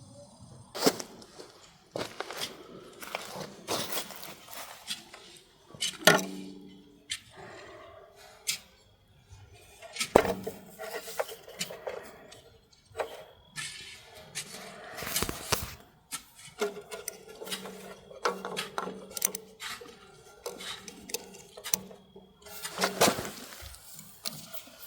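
Scattered metallic clinks, taps and scrapes of hand tools and small engine parts being handled, with short gaps between them.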